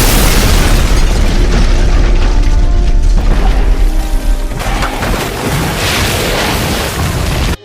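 Dubbed explosion sound effect: a sudden loud boom that runs on as a long, heavy rumble with music underneath, cutting off abruptly near the end.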